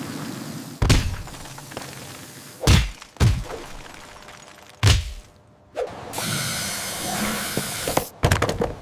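A series of sudden thuds, each with a whooshing tail, one to two seconds apart. After a short lull comes a steady rushing noise, then a quick run of clicks and knocks near the end.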